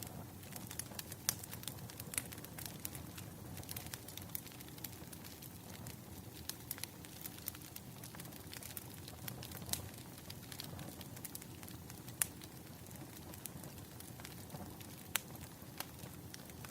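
Wood fire crackling: irregular sharp pops and snaps over a low, steady rush.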